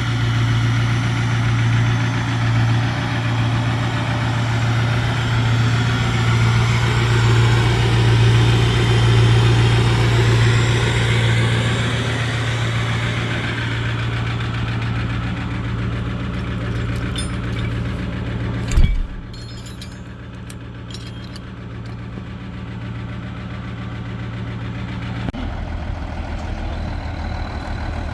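Heavy diesel truck engine idling with a steady low hum. A single loud thump about 19 seconds in, after which the engine sounds quieter and duller.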